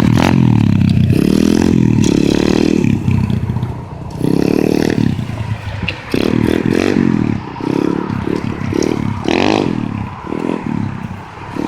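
Pit bike engine revving up and down over and over as it is ridden hard, with clattering and scraping.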